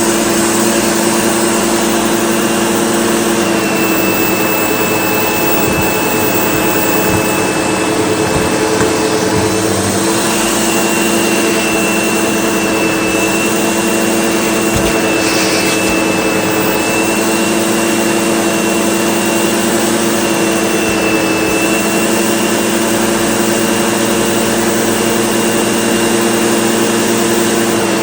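SEBO Automatic X4 bagged upright vacuum cleaner running steadily: a motor hum with a thin high whine over the rush of suction air. A few short clicks sound between about four and ten seconds in, and once more near the middle.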